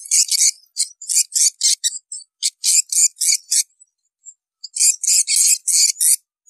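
Swiftlets calling: rapid runs of short, high, buzzy chirps, about five a second, with a pause of about a second near the middle. It is the twittering used in swiftlet farming to draw swiftlets to nesting houses.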